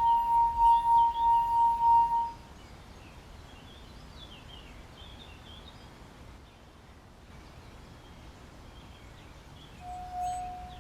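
Liquid-filled wine glass singing as a wet finger is rubbed around its rim: one steady, clear tone that pulses slightly and stops about two seconds in. Faint bird chirps follow, and near the end a second glass starts singing at a lower pitch.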